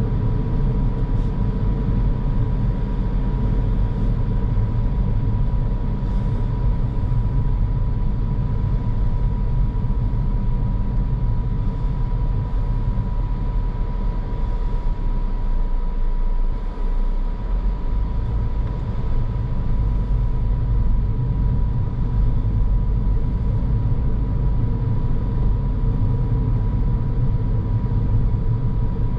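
Car driving on the road: a steady low rumble of tyre and engine noise, with a thin steady whine underneath. The deepest part of the rumble eases briefly just past the middle.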